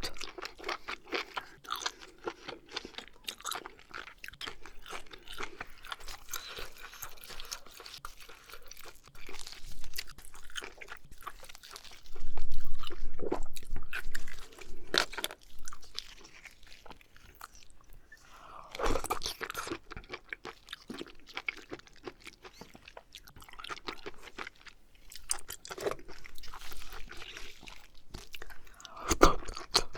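Close-miked chewing of oysters: a steady run of wet smacks and small clicks of the mouth, with louder bites here and there, the loudest stretch about twelve seconds in.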